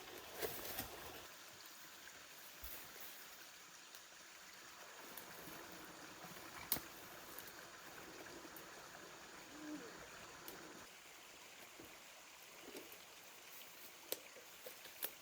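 Faint running-water hiss with a few sharp clicks and knocks scattered through it.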